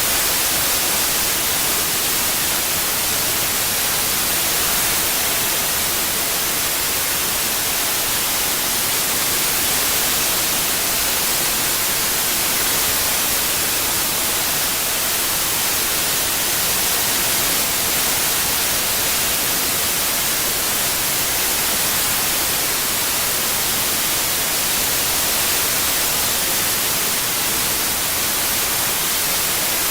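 Steady white noise, an even hiss strongest in the highs with no changes.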